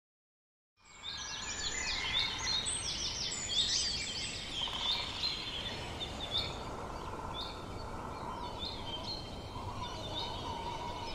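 Several birds chirping and calling over a low, steady background hiss, starting about a second in. The calls are busiest in the first few seconds and thin out later.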